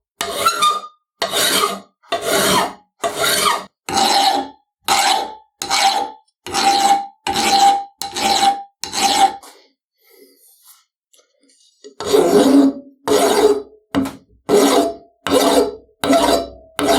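Steel hand file rasping in regular strokes, about one every 0.7 seconds, some strokes with a brief metallic ring; the strokes stop for about two seconds in the middle, then go on.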